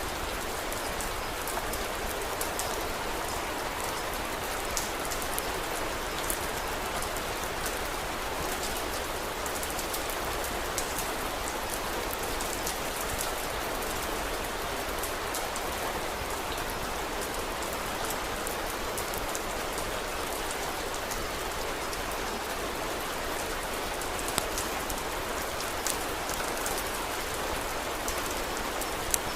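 Steady rain with a constant hiss, dotted with many sharp little clicks and a few louder pops.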